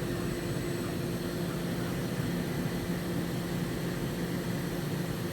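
Hurco VM5i CNC vertical machining center running with a steady electrical and mechanical hum, with a couple of low steady tones that do not change.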